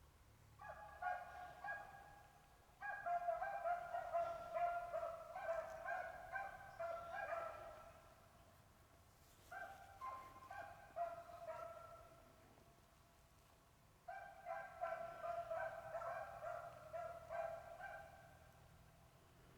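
Two beagles baying on a rabbit's scent trail, their voices overlapping in bouts of a few seconds with short pauses between. The baying is the sign that the hounds are on the track and running the rabbit.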